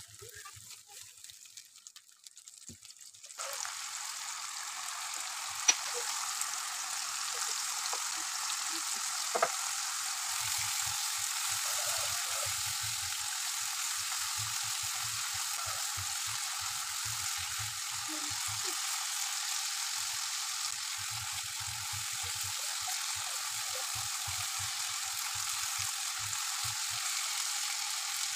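Tomato masala sizzling steadily in hot oil in a nonstick kadai while being sautéed, with a silicone spatula stirring and scraping through it. The sizzle starts in full about three seconds in after a quieter start, and there are a couple of sharp clicks.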